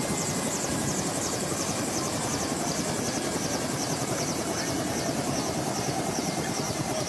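Helicopter running, a steady rotor and engine noise with a fast, even chop.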